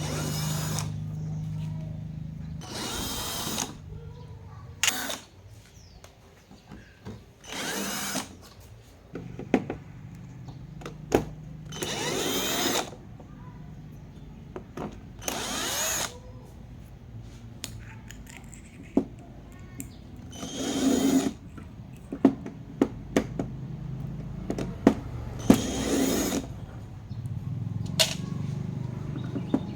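Handheld power screwdriver running in short bursts of about a second, several seconds apart, with clicks and handling noise between the bursts.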